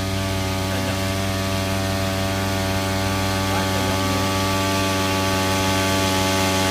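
Small grass-cutter engine running steadily at high speed, driving a homemade water pump; it gets slightly louder toward the end.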